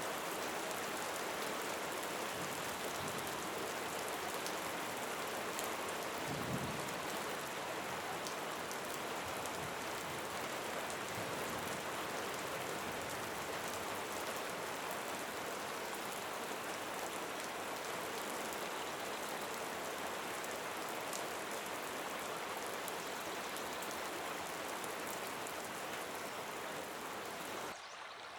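Steady rain: a dense hiss with a fine patter of drops, and one brief low thump about six seconds in. Near the end it cuts abruptly to a quieter running-water sound.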